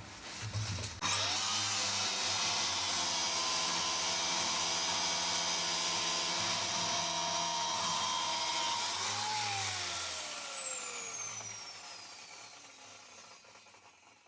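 Electric power tool motor switched on and running free with a steady high whine for about eight seconds, then switched off and spinning down with a falling pitch until it stops.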